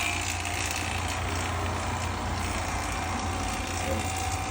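Vacuum pump of a DIY vacuum furnace running steadily, a low hum with a thin steady whine and a hiss over it.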